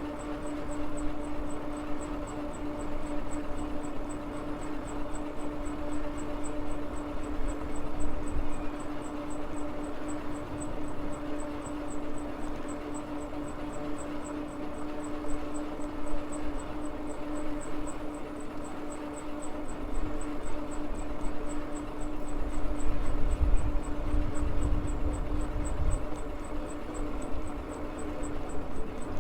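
MAXTRON MULE folding e-bike being ridden: the electric motor gives a steady whine over tyre and wind noise, with wind rumbling more heavily on the microphone from about twenty seconds in.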